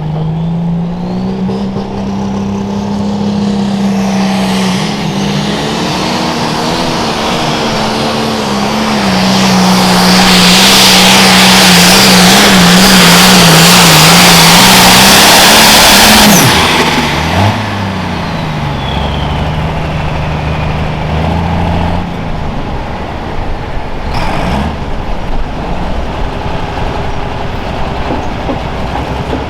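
Turbocharged diesel engine of a pro stock pulling tractor at full throttle on a pull, its pitch wobbling as the tractor bounces and hooks. It is loudest about a third of the way in, then the throttle shuts off just past halfway, the turbo whine falls away, and the engine settles to a low idle.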